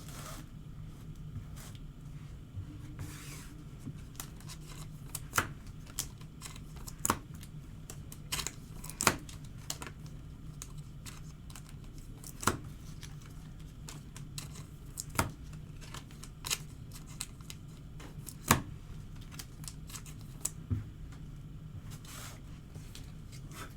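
Trading cards and foil pack wrappers being handled on a table: scattered sharp clicks and short rustles and tears, over a low steady hum.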